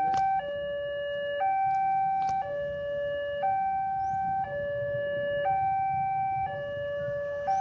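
Two-tone electronic siren alternating a higher and a lower note, each held about a second, with no change in pitch. Under it runs a faint low rumble.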